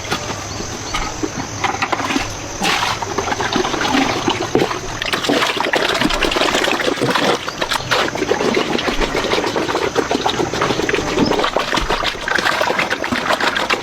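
Water splashing and running, a dense patter of small splashes that gets busier about halfway through.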